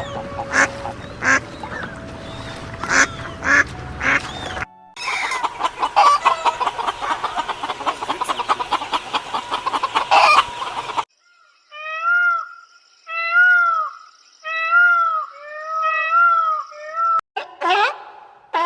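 Geese and ducks calling in a string of short clips: scattered calls at first, then a flock calling densely for about six seconds, then five separate honks in a row.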